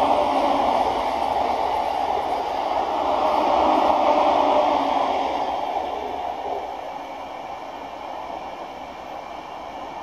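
Green-and-orange-striped JR East suburban electric train running along the track away from the listener: a steady rolling noise of wheels on rail, loud for the first few seconds and then slowly fading as the train recedes.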